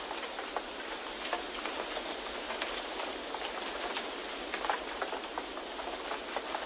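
White-noise nature ambience: a steady hiss with many small, irregular ticks scattered through it.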